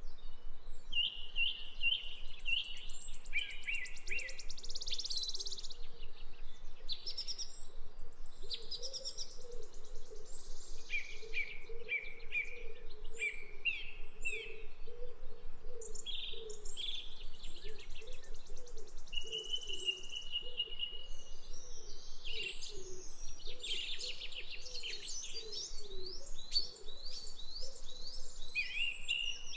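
Several birds singing and chirping in a village morning chorus, with short trills and repeated chirps overlapping throughout. A low wavering sound runs underneath.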